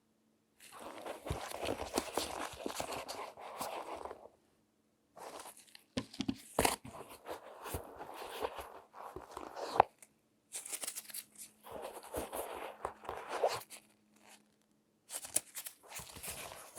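Close-miked crinkling and rustling handling sounds in four bursts, split by short silent gaps, with a few sharp clicks. The loudest click comes near the middle.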